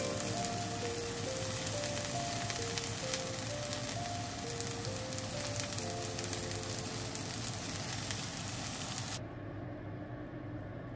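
Food frying in a hot pan: a steady, crackling sizzle that cuts off suddenly about nine seconds in. A soft background music melody plays throughout.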